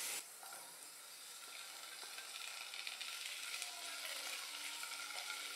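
Okra pieces and potato sticks frying in mustard oil in a pan: a faint, even sizzle that slowly grows louder.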